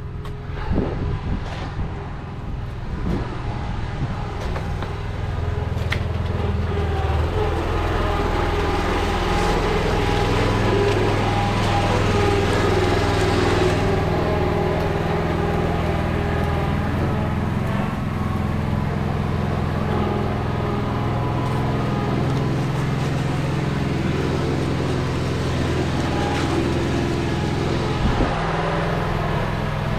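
An engine running steadily, with a dense rushing, grinding noise over it that builds over the first several seconds.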